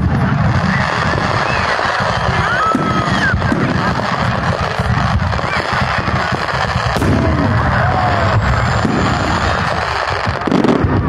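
Aerial fireworks display going off continuously, a dense mix of shell bursts, booms and crackle, with one sharp bang about seven seconds in.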